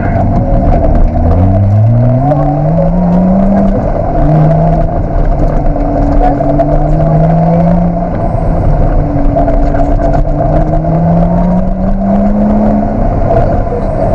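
Lotus Exige 360 Cup's supercharged V6 heard from inside the cockpit, accelerating hard. The engine note climbs in pitch three times, falling back at gear changes about four and eight seconds in, over a steady drone.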